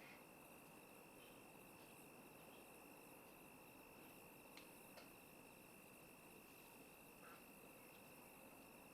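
Near silence, with a faint, steady high-pitched insect trill running through it.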